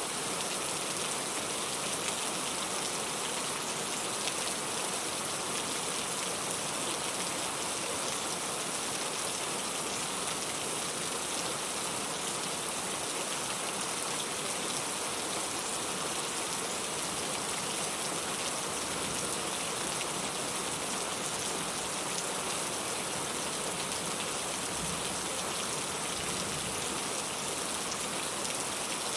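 Steady rain falling: an even, unbroken hiss with fine patter of drops, used as pink noise for sleep.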